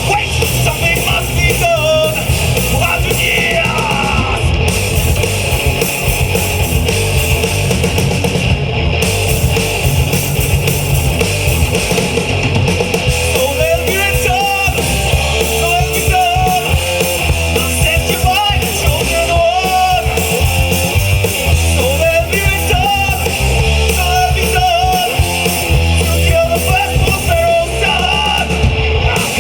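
A rock band playing live: electric guitars, bass guitar and drums, with sung vocals over them.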